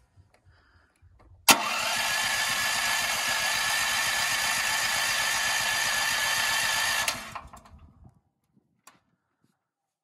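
Hyundai HYD-G-5500W generator's engine running steadily, cutting in abruptly about a second and a half in and stopping about seven seconds in, dying away over the next second. A faint click follows near the end.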